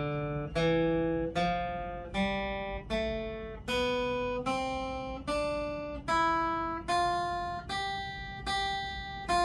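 Acoustic guitar playing single picked notes of a C major scale, climbing step by step at about one and a half notes a second. Each note is held until the next one sounds, so the notes join smoothly instead of being cut short.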